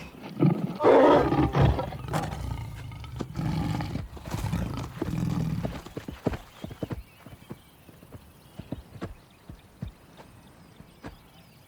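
Loud animal calls over hoofbeats for the first six seconds or so, then scattered single hoof knocks.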